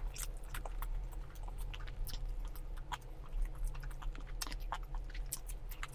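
A person chewing food close to the microphone, with irregular wet mouth clicks and smacks several times a second.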